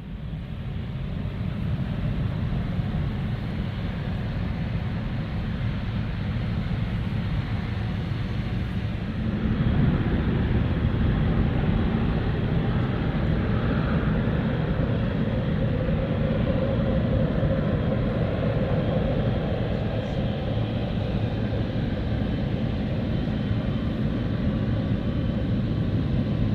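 Jet airliner engine noise: a steady low rumble that fades in at the start and grows louder about ten seconds in.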